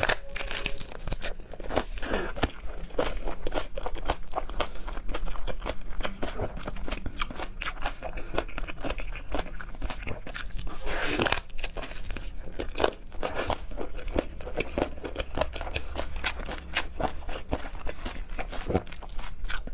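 A person chewing and biting crunchy food up close: a dense, irregular run of crisp crunches and mouth clicks, with one heavier crunch about eleven seconds in.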